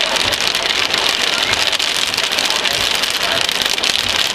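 Heavy thunderstorm rain pouring steadily, a dense patter of drops.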